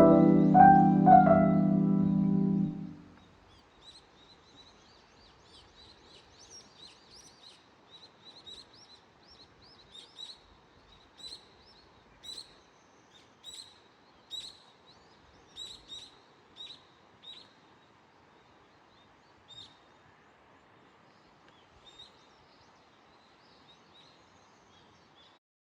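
Piano background music that stops about three seconds in, followed by faint bird chirps: short, high calls repeating roughly once a second for a stretch, then more sparsely, over a quiet background hiss.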